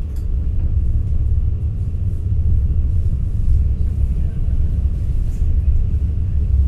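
Steady low rumble of an NS ICNG electric intercity train running along the track, heard from inside the passenger carriage, with faint light ticks over it.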